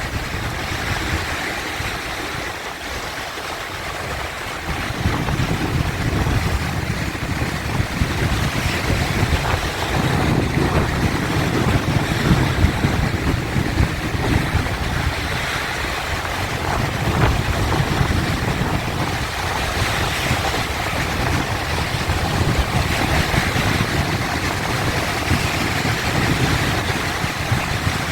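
Sea waves rushing and washing in a steady surge, with a low rumble that swells louder about five seconds in and then rises and falls.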